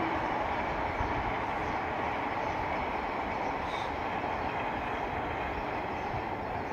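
Distant passenger train running along the track: a steady noise of wheels on rails that slowly fades.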